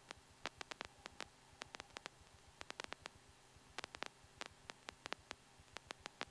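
Near silence on the aircraft's radio audio, with faint irregular clicks and crackles of static between transmissions and a low hiss underneath.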